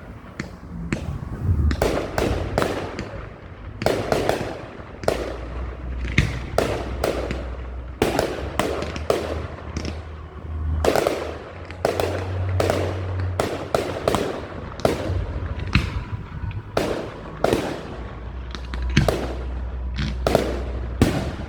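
Fireworks going off in quick succession: many sharp bangs, at times several a second, over a low rumble.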